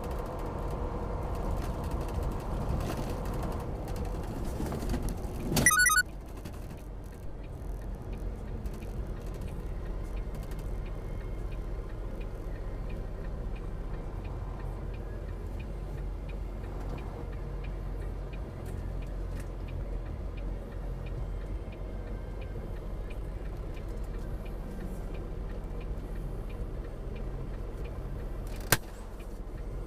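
Steady low rumble of a vehicle on the move, with a faint regular ticking over it. A short warbling beep comes about six seconds in, and a sharp click near the end.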